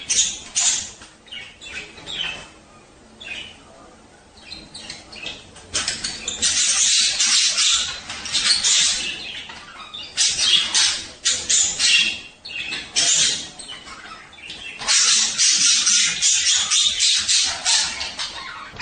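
Budgerigars warbling and chattering in rapid high twitters, sparse at first and then in long busy bursts from about six seconds in.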